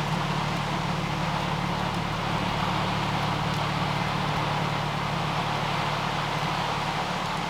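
Air compressor running continuously with a steady drone, its motor no longer cycling off.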